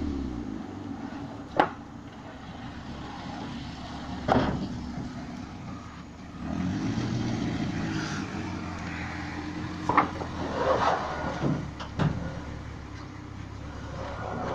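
A vehicle's engine dropping off a rev, then running with a low rumble and picking up again about halfway through. Four sharp knocks or clanks cut through it.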